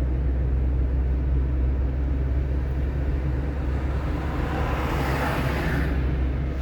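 Car driving on a rain-wet road: a steady low rumble of engine and tyres, with a hiss that swells about four seconds in and stops sharply near six seconds.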